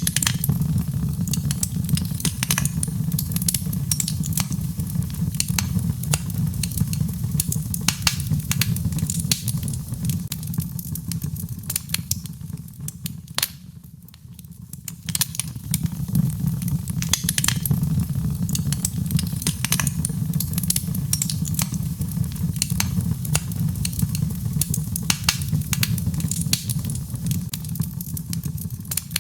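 Birch logs burning in a fireplace, crackling with frequent sharp pops over a low steady rumble of the flames. The pops thin out briefly about halfway through, then pick up again.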